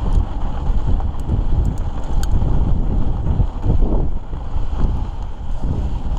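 Wind buffeting the microphone of a camera riding along on a fast mountain-bike descent, over a steady low rumble of tyres on a dirt trail. A few sharp clicks and rattles in the first half.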